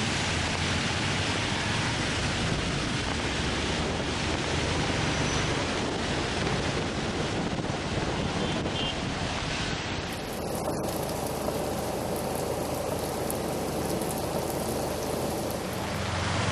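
Steady rushing noise of heavy rain and running water, with an abrupt change to a different recording of the same kind about ten seconds in.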